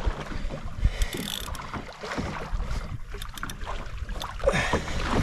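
Wind on the microphone and water sloshing around a fishing kayak, with scattered knocks and clicks.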